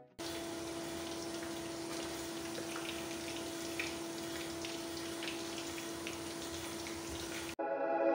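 Chicken pieces frying in hot oil: a steady sizzle with scattered small pops, over a steady low hum. It starts just after the music cuts out and stops sharply a little before the end, when the music comes back.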